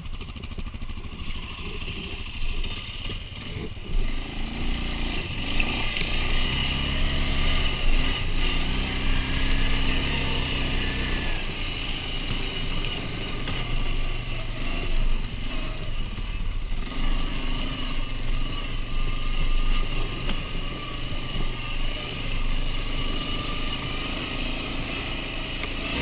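Quad bike (ATV) engine running under varying throttle while riding, its revs rising and falling again and again.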